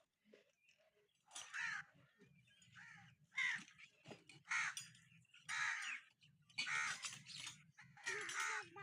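Crow cawing repeatedly, about seven harsh caws roughly a second apart, over a faint low hum.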